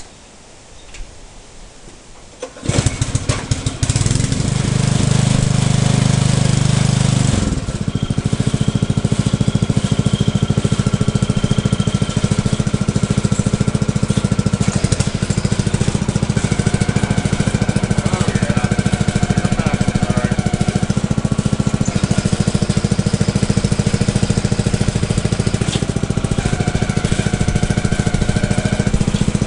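New Briggs & Stratton small engine on a Troy-Bilt rototiller starting up about three seconds in, running fast for a few seconds, then settling to a steady lower run.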